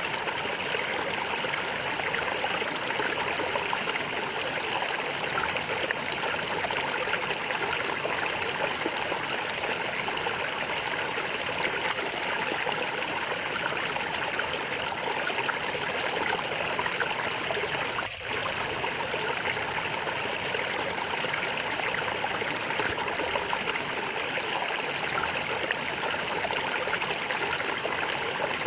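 Water gurgling and flowing steadily, as in a small stream, with a momentary drop in level about two-thirds of the way through.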